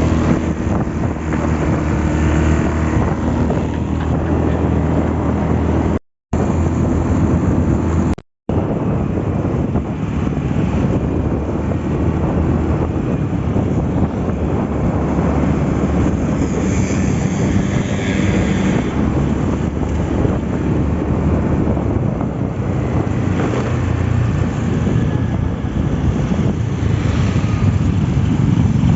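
Motorcycle engine running while riding, with heavy wind noise rushing over the microphone. The sound cuts out completely twice, briefly, about six and eight seconds in.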